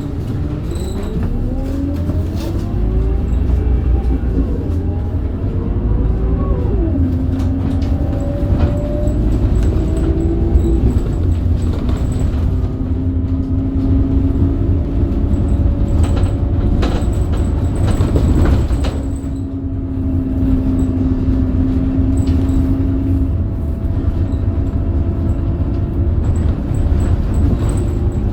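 Scania DC9 diesel engine of a Scania K270UB bus with ZF Ecomat automatic gearbox pulling away: the engine note rises, drops as the gearbox shifts up about six seconds in, rises again and shifts up once more about eleven seconds in, then holds steady while cruising, over a constant low rumble.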